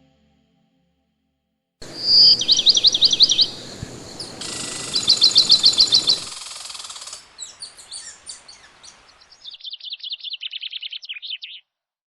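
Small songbird singing several short high trills, each a quick run of repeated notes. The background noise starts and stops abruptly between phrases.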